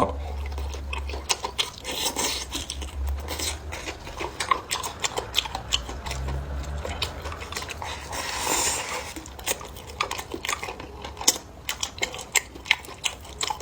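Chopsticks and utensils clicking and clattering against dishes during eating: many short, irregular clicks, with two longer rustling swells.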